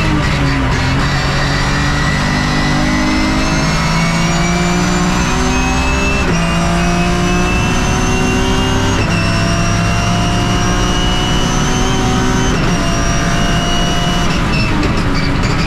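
Race-car straight-six engine under hard acceleration, a BMW E36 M3's forged S54. Its pitch falls near the start, then climbs steadily through the gears, dropping sharply at three quick upshifts of the sequential gearbox.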